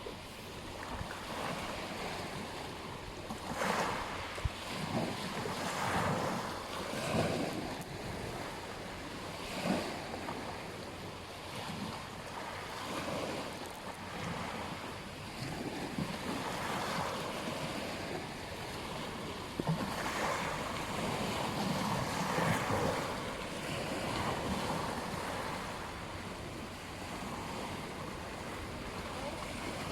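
Surf washing onto a beach, a steady hiss of water that swells with each wave every two to three seconds.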